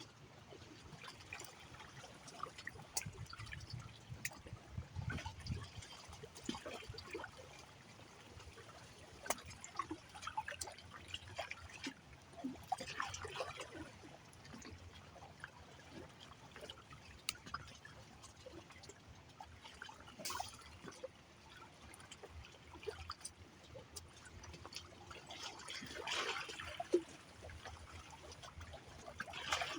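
Water trickling and lapping, with many irregular small splashes and clicks and a few louder surges of splashing.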